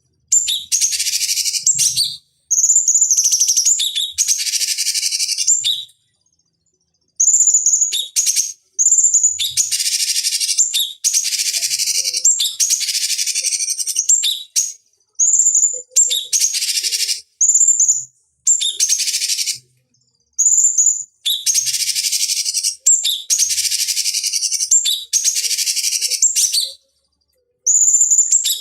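A cucak cungkok bulbul singing in repeated loud phrases. Each phrase opens with a short high whistled note and runs into fast, dense chattering for one to three seconds, with brief pauses between phrases.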